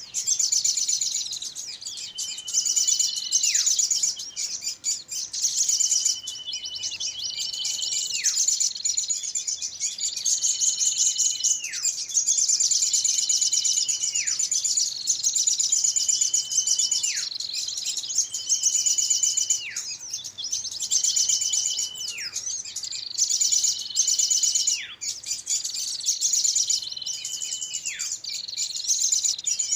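Bird-lure recording of small birds calling: dense, rapid high chatter throughout, with a whistled note that holds and then drops steeply, repeating about every three seconds like a loop.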